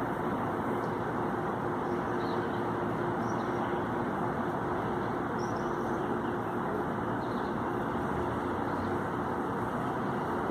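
Steady roar of city traffic noise with a constant low hum. A few faint, short, high bird chirps are scattered through it.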